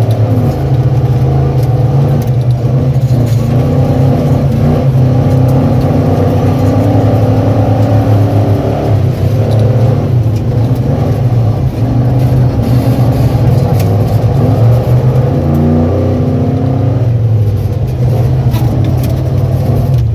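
Ford Bronco's engine driven hard, its pitch rising and falling as it accelerates and lifts off, with the bigger swings about halfway through and again near the end.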